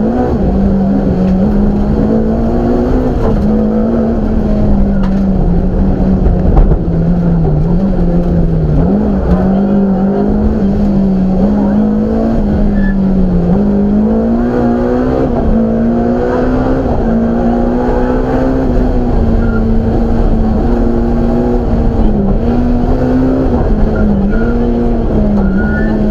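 BMW M3 rally car's engine running hard under load, heard on board, its pitch staying high and wavering up and down a little throughout.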